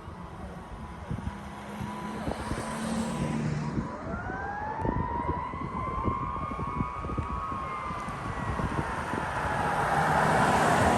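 Fire apparatus sirens: an electronic siren repeats a fast sweep, while a mechanical siren winds up from about four seconds in and slowly winds down. A low horn blast sounds about two to three seconds in. The sirens grow louder toward the end.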